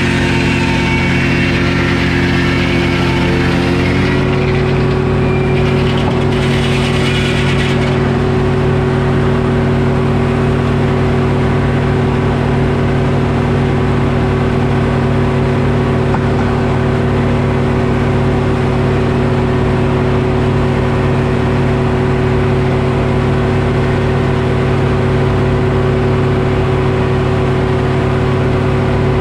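Detroit Diesel engine powering a Frick sawmill, running steadily under a loud, even drone. About four seconds in its pitch rises slightly and then holds.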